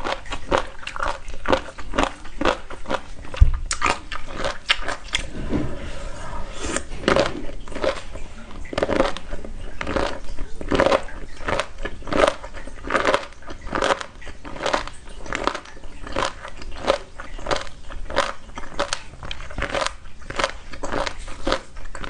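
Close-up eating sounds: someone biting and chewing crisp, crunchy food in a steady run of crackling crunches, two or three a second, with one louder knock a few seconds in.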